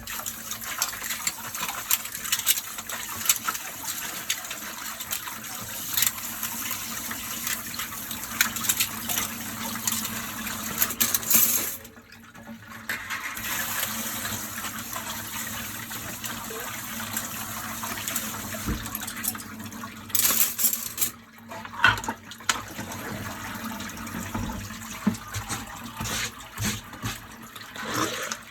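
Dishes being washed by hand at a sink under a running tap, with frequent clinks and knocks of dishware. The water cuts out briefly about twelve seconds in and again about twenty-one seconds in.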